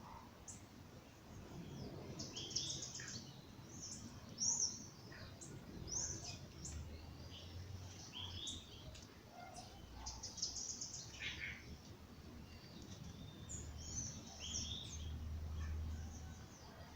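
Several songbirds chirping and singing at once in a dawn chorus: many short, varied high chirps and trills overlapping. A low rumble rises underneath twice, in the middle and near the end.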